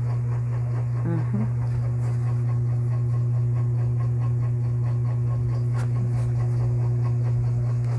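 A steady low hum with an even level and no change.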